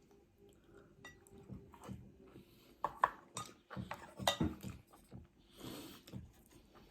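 Eating utensils clicking and clinking against a bowl and dishes in a loose scatter of light knocks, busiest from about three to four and a half seconds in.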